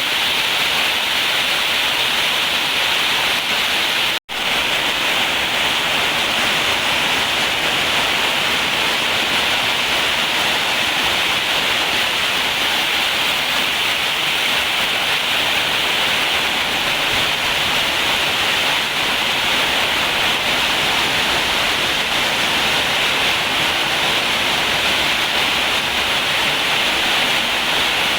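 Heavy rain falling: a loud, steady hiss with no separate hits or voices, cutting out for an instant about four seconds in.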